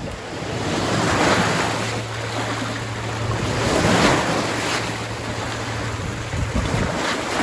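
Sea waves washing onto a sandy beach, the surf swelling twice, about a second in and again about four seconds in, with wind on the microphone.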